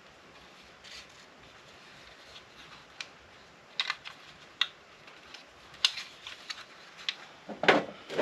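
Side cutters and small parts clicking while an electronics unit is dismantled: a handful of sharp, separate clicks, starting about three seconds in and coming closer together near the end.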